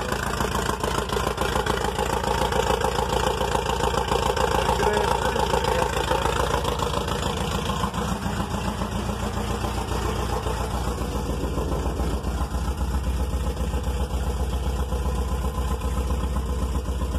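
Volkswagen Type 3 Squareback's air-cooled flat-four engine idling steadily.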